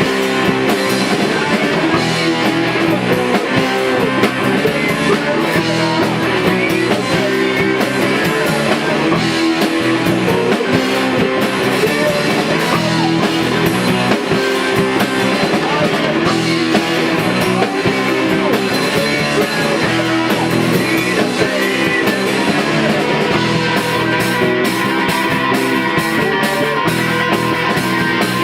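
Rock band playing at rehearsal: electric guitar and drum kit, loud and steady without a break.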